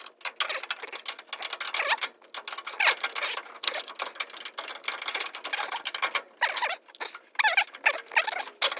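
Metal battery holder clinking, rattling and scraping against its mounting bolts as it is worked into place by hand, with quick irregular clicks and a few short squeaks.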